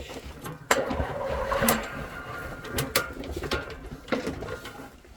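Rattling and irregular clicks and knocks as a drain inspection camera's push rod is fed from its reel into the pipe.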